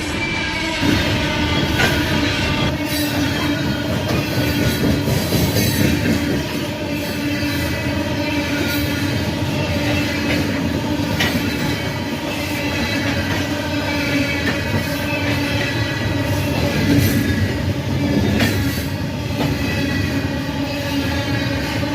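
A train rolling past on steel rails, its wheels squealing in several held tones over a steady rumble, with an occasional click from the rails.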